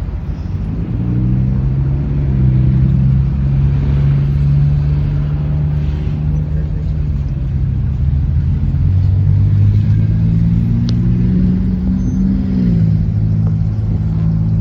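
A car engine running while driving, heard as a steady low hum over road rumble. Its pitch rises slowly, then drops in a step about twelve and a half seconds in.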